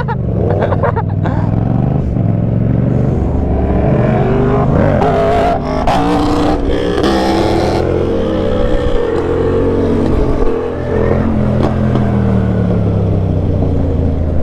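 Motorcycle engine running while riding, its pitch rising and falling with the throttle and falling away slowly near the end, over a steady rushing noise. A louder rushing noise swells about six seconds in and lasts about two seconds.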